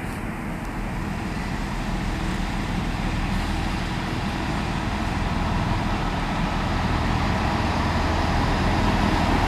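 Train at a station platform: a steady low engine hum and rumble that grows gradually louder through the second half.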